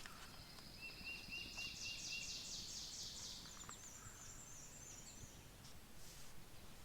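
Faint birdsong: a short run of high notes about a second in, a fast high trill, then thinner high twittering that fades out about five seconds in.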